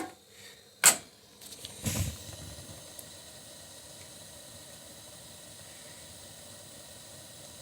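A sharp click, then a dull knock, then the steady hiss of a boiler's standing gas pilot flame burning.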